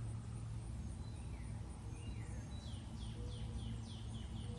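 A bird chirping over a steady low background rumble: a couple of soft downward chirps, then from a little past halfway a rapid run of high downward-sweeping chirps, about three a second, like little futuristic guns.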